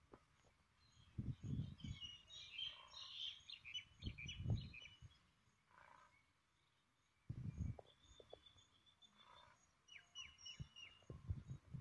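Small birds chirping and twittering in bursts, with several low muffled rumbles on the microphone, the loudest about four and a half seconds in.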